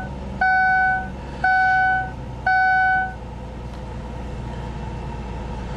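Ford Taurus dashboard warning chime beeping three times, evenly about a second apart, then stopping, while the freshly cold-started 3.0-litre Vulcan V6 idles steadily underneath.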